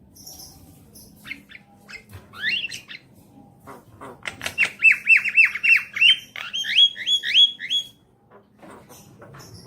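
Javan myna (jalak kebo) singing: harsh clicking chatter and squawks, then about halfway through a quick run of some eight repeated down-slurred whistles, followed by a string of rising, hooked whistles, before the chatter resumes.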